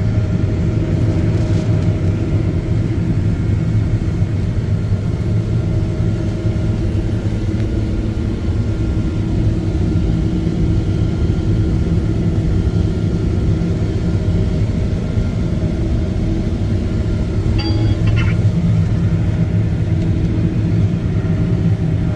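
Heavy farm machine's engine running steadily with a constant low rumble. A few brief high beeps sound about three quarters of the way through.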